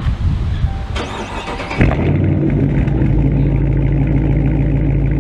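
Dodge Charger R/T Daytona's 5.7L Hemi V8 with a mid-muffler-delete exhaust starting up: the starter cranks briefly about a second in, the engine catches with a loud flare just before two seconds, then settles into a steady, loud idle.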